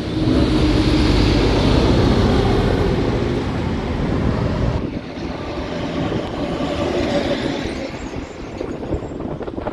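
Heavy diesel truck going by with its engine brake (Jake brake) on, a loud low rumble that is strongest in the first few seconds and fades after about five seconds.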